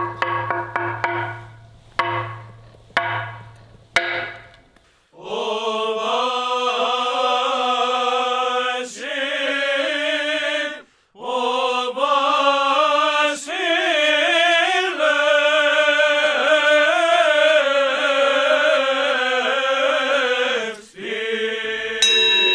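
A few sharp struck, ringing hits, then Byzantine chant: a single melodic line sung in long, ornamented phrases with short breaths between them.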